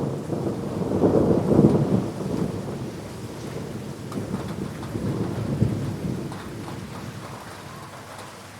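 Thunder during a rainstorm: a sharp crack at the start, then a long low rumble that swells twice and dies away, over steady falling rain.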